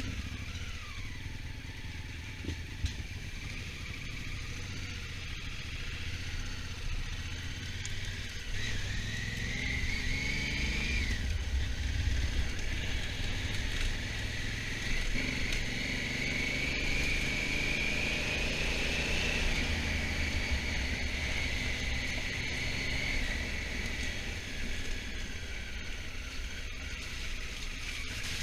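Honda Africa Twin motorcycle under way, with a steady low rumble throughout. The engine note climbs about 8 seconds in and drops suddenly near 11 seconds, like a gear change, then rises slowly again for several seconds and falls back.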